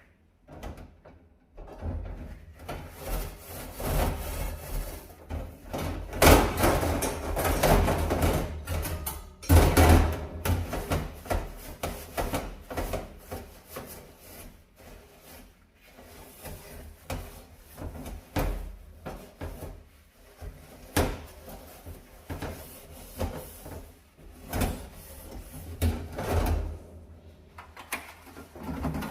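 Brush scrubbing a dirty kitchen stove: irregular rubbing strokes with occasional sharp knocks, busiest a few seconds in.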